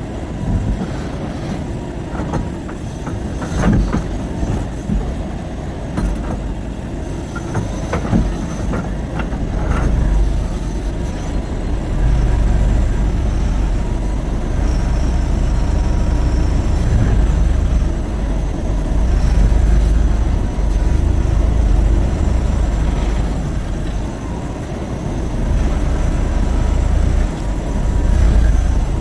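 Terex RH30F hydraulic excavator working: a deep, steady diesel engine rumble that grows louder about midway through, with a few sharp knocks and clatter in the first part as stones are handled.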